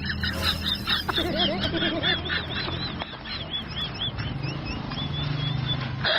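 Birds calling: a string of short, high peeps, a few a second, with a run of lower quick calls in the first couple of seconds.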